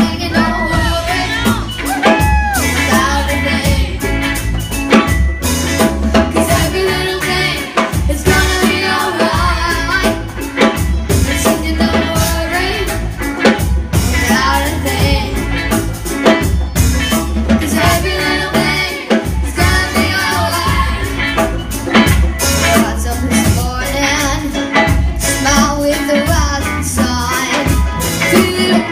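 Live band and chorus performing a reggae song: a steady bass line and drums under sung voices.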